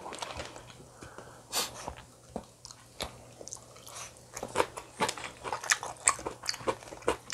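Close-miked chewing of a mouthful of food: a run of quick wet clicks and smacks that gets busier about halfway through.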